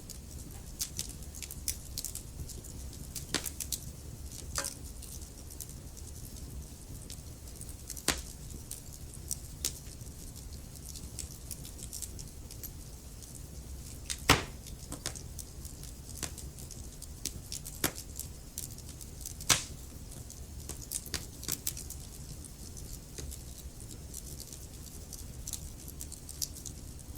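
Wood fire burning in a fireplace: a steady low rumble with irregular crackles and snaps from the burning logs, two louder pops standing out about halfway through and again a few seconds later.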